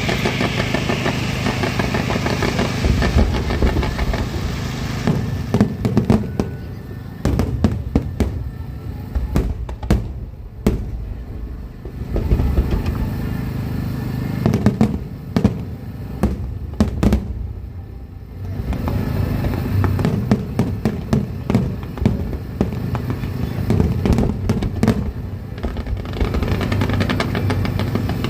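Aerial fireworks show: many sharp bangs of shells bursting, some in rapid clusters, with music playing underneath.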